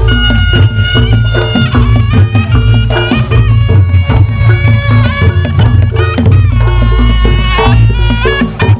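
Reog Ponorogo music: a slompret, a double-reed shawm, plays a wavering, gliding melody over kendang drums and a heavy low gong-and-bass pulse.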